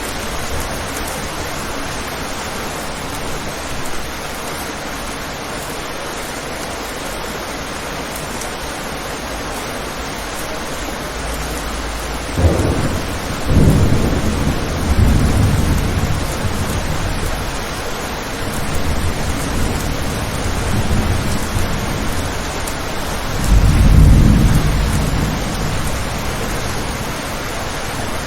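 Steady rain falling on a window, with thunder: a sharp crack about twelve seconds in, then rolling rumbles, and a second, loudest rumble near the end.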